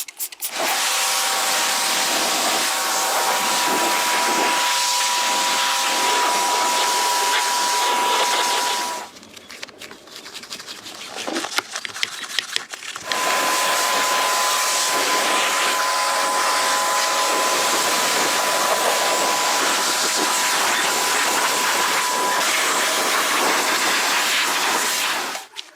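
A steady hissing machine sound with a faint whine, in two long runs: the first stops about nine seconds in, and after a pause of about four seconds it starts again and runs until near the end.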